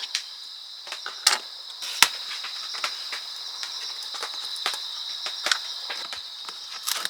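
Crickets trilling steadily in a high, even band, with scattered sharp clicks and taps over them at irregular intervals.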